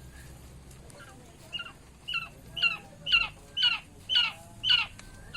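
A quail calling: a series of about eight short, sharp calls, roughly two a second, starting about a second and a half in and growing louder toward the end.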